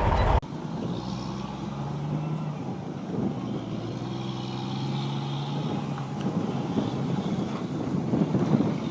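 Truck engine running steadily, a low hum over faint background noise.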